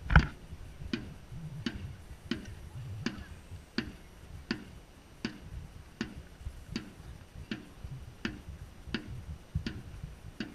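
Dragon boat drum beaten at a steady pace, about three beats every two seconds, setting the paddlers' stroke rate; the first beat is the loudest.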